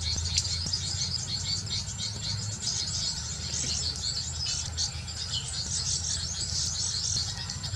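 A dense chorus of rapid, high-pitched chirps from small birds gathered at a bird-lime catching spot, with a steady low hum underneath.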